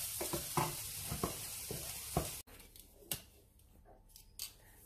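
Chicken wings sizzling in a frying pan while being stirred with a spatula, with repeated scraping knocks of the spatula against the pan. The sizzle cuts off suddenly about two and a half seconds in, leaving a quiet stretch with a few faint clicks.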